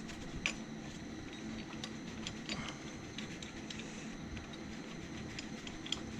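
Scattered light metallic ticks and clicks of hand tools being fitted to a gear puller on the Audi 2.6 V6's camshaft gear, over a steady low hum; the clearest clicks come about half a second in and near the end.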